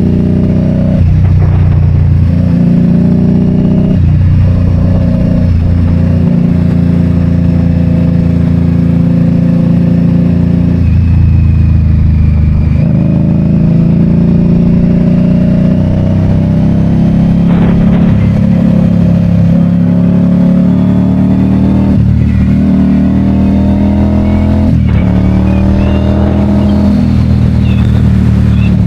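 2022 Indian Scout Bobber's V-twin engine running under way, its note rising and dropping several times, as with throttle changes and gear shifts.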